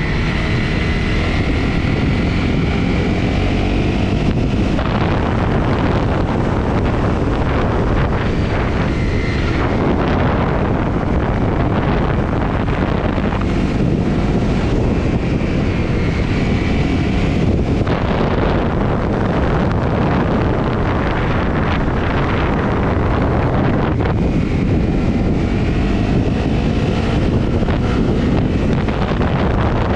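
Honda CRF250 motorcycle's single-cylinder engine running on the move, mixed with heavy wind noise on the microphone. In a few stretches, at the start, around the middle and near the end, the wind eases and the engine note comes through more clearly.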